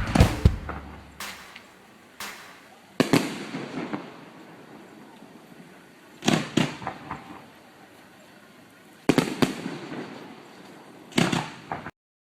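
Aerial fireworks going off: sharp bangs in clusters of one to three, each trailing off in a fading crackle, a few seconds apart. The sound cuts off suddenly near the end.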